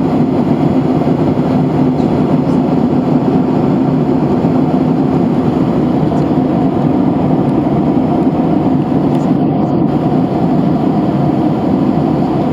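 Steady cabin noise of a Boeing 737-800 in flight: an even rush of engine and airflow noise with a constant low hum.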